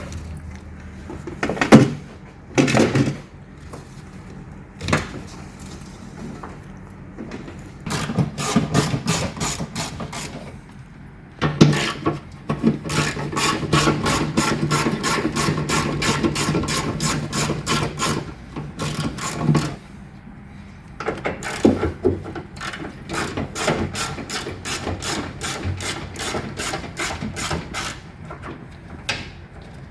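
Ratchet wrench clicking in three long runs of rapid, even clicks, after a few single knocks, as bolts are unscrewed.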